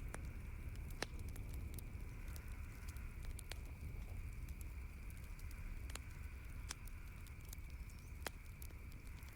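Campfire crackling: irregular sharp pops, a few louder ones about a second in and near the middle and end, over a steady low rumble.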